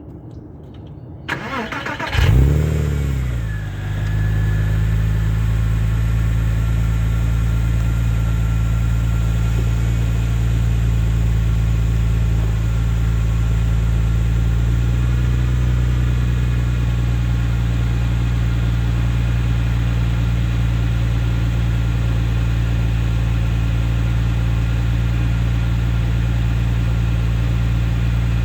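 Porsche 996 Carrera 2's flat-six engine cold-started: a brief crank with the starter, then it catches about two seconds in with a sharp flare of revs and settles into a steady, raised cold-start fast idle.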